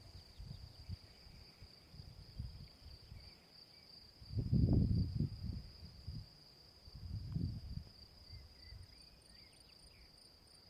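Insects trilling in one steady, high, continuous tone. Two louder low rumbles of wind buffet the microphone, about four and seven seconds in.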